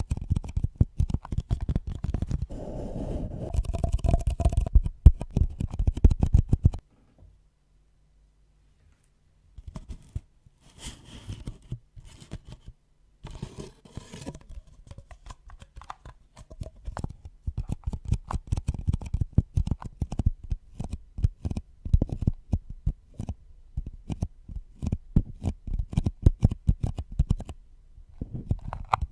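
Close-miked tapping and scratching on objects, many quick sharp taps. They stop for a few seconds of near silence about seven seconds in, return as softer scratching, then become fast tapping again.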